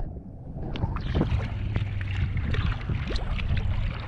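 Water splashing and sloshing close to the camera, with a low steady hum underneath.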